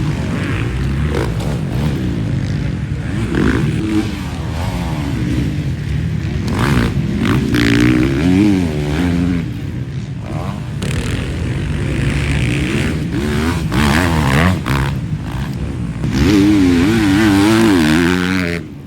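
Motocross dirt bike engines racing on the track, revving up and falling back over and over as the riders work through the throttle and gears, loudest in a couple of passes about halfway and near the end.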